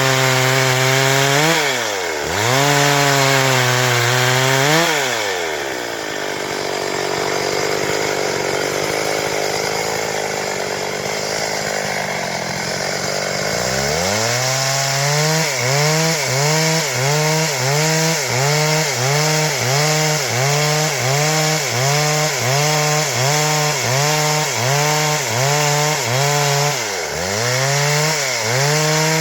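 Stihl MS 382 two-stroke chainsaw running at high revs while cutting wood, its pitch dipping and recovering as the chain bites. For several seconds in the middle a steady rasp of chain through wood covers the engine tone; after that the pitch dips in a regular rhythm, a bit more than once a second.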